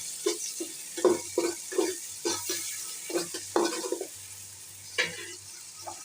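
Green peas and onions sizzling in hot oil in a pot while a spoon scrapes and knocks against the pan as they are stirred, about a dozen quick strokes over the first four seconds and one more about five seconds in.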